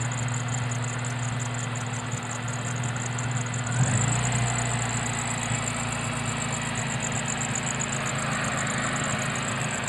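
Car engine with a Jackson Racing supercharger idling, with a high squeal from the supercharger drive belt. The engine's note shifts briefly about four seconds in.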